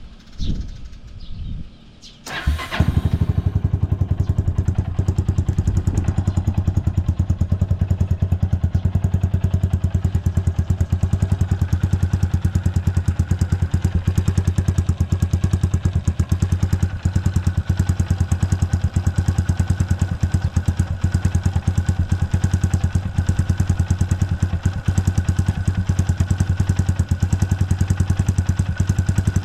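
Honda FTR223's single-cylinder four-stroke engine, breathing through a 4-inch Supertrap full exhaust, starts from cold about two seconds in and settles into a steady, evenly pulsing idle with no abnormal noise.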